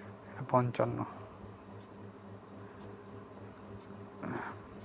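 A steady low buzzing hum with a thin high-pitched whine above it, under a single spoken number; a soft breath comes near the end.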